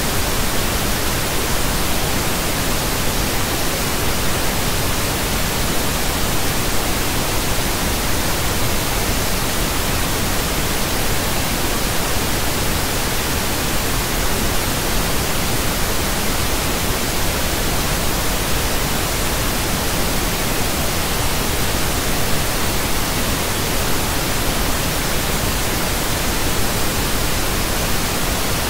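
Pink noise: a steady, even hiss spread across all frequencies, unchanging throughout.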